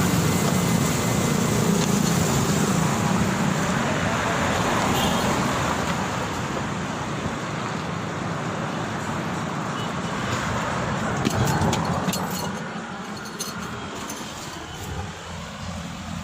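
Steady street traffic noise from passing vehicles, fading somewhat over the last few seconds, with a few light knocks a little after the middle.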